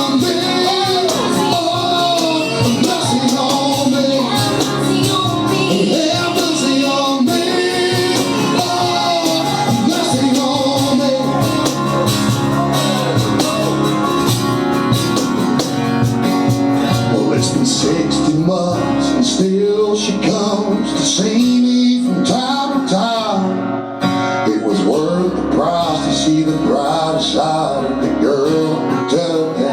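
Live country band performing a song, guitar to the fore, with a melody line that bends in pitch; the sound dips briefly near the end.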